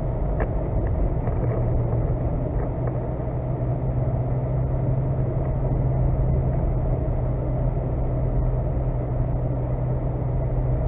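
Truck driving on a snow-covered road, heard from inside the cab: a steady low drone of engine and road noise.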